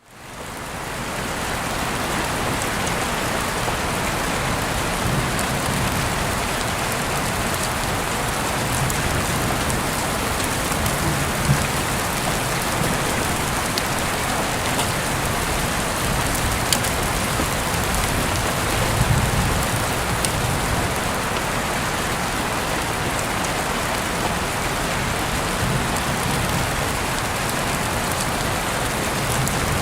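Heavy rain falling steadily, heard through an open window, with a few sharper drips now and then. It fades in over the first second.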